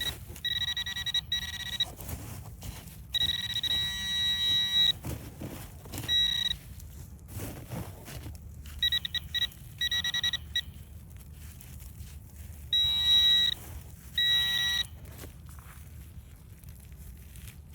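Handheld metal-detecting pinpointer buzzing in repeated on-off bursts as it is swept over a buried target, signalling metal close by. It sounds as a high, fast-pulsing buzz, each burst lasting up to about two seconds, about six times.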